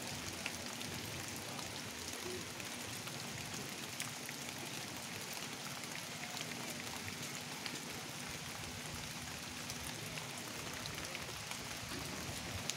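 Steady rain falling on a pond's surface: an even hiss dotted with many small drop ticks.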